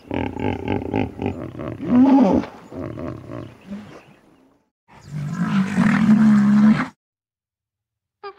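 Rhinoceros calling: a series of deep, drawn-out moaning calls, the last and loudest held steady for about two seconds before it stops abruptly.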